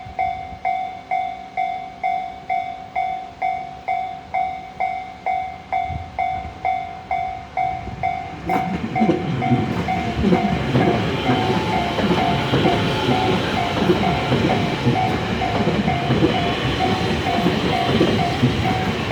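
Level-crossing warning bell ringing about twice a second. About eight seconds in, a ten-car Tobu 50090 series electric commuter train arrives and runs over the double-track crossing, its wheel and rail noise covering the bell, which keeps ringing underneath.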